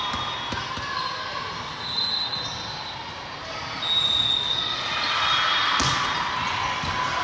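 Busy volleyball gym: a steady crowd and hall din with balls being hit and bouncing, brief high-pitched squeaks, and one sharp ball strike about six seconds in.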